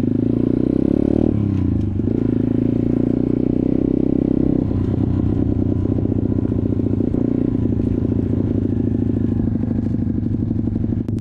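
Dirt bike engine running steadily while riding, with changes in throttle about a second in and again near five seconds in.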